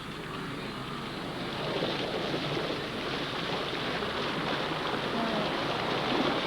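Steady churning and splashing of water as a herd of wildebeest wades and swims across a lake.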